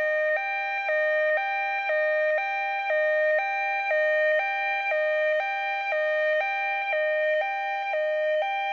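Electronic two-tone hi-lo alarm sound effect, switching between a lower and a slightly higher buzzy tone about every half second with a small click at each change.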